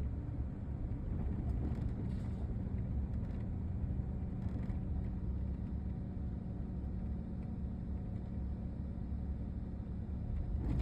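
Steady low rumble of a road vehicle, with a faint steady hum.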